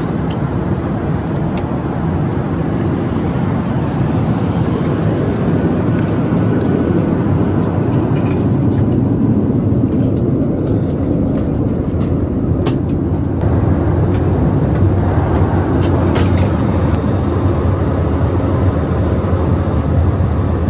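Steady cabin noise of a Boeing 737-800 in flight: a constant low rumble of engines and airflow, with a few light clicks midway.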